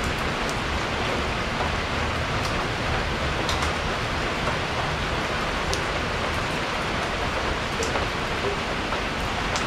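Steady rain, an even hiss, with now and then a single louder drop striking close by.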